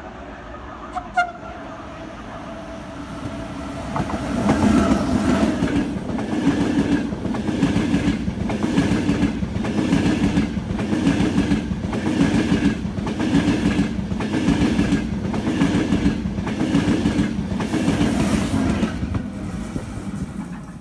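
A train passing close by, its wheels clattering over the rail joints in a regular beat a little faster than once a second. About a second in there is a short, sharp sound, and the passing grows loud from about four seconds in.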